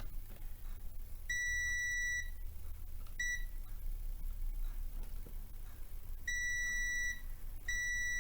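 Multimeter continuity buzzer beeping four times: a beep of about a second, a short blip, then two more beeps of almost a second, as the probes touch points that are connected.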